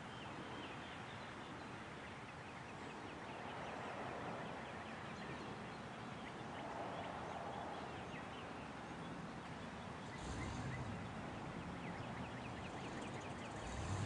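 Faint outdoor ambience of birds chirping, many short rising calls repeated throughout. About ten seconds in, a low rumble comes up underneath.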